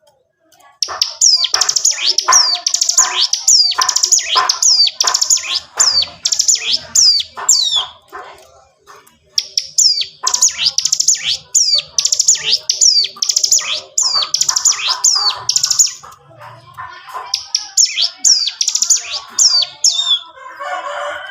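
A bar-winged prinia (ciblek gunung) sings in long, fast runs of high notes that sweep downward, about two a second. The song comes in three runs with short pauses between them.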